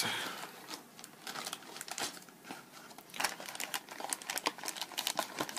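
Plastic bags of model kit parts crinkling and rustling as they are handled, with irregular light clicks.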